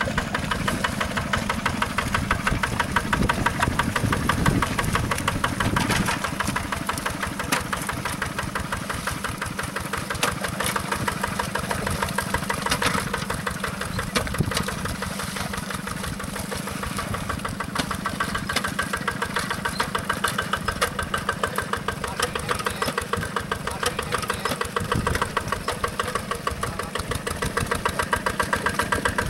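Hand tractor's engine running steadily with a rapid, even chugging pulse.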